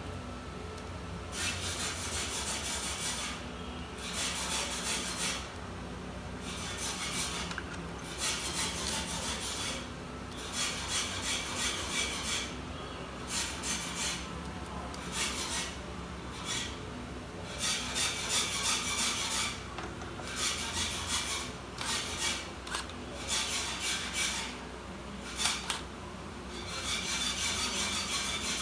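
Repeated scraping or rubbing strokes on a laptop during a keyboard replacement, each lasting one to two seconds, with short pauses between them.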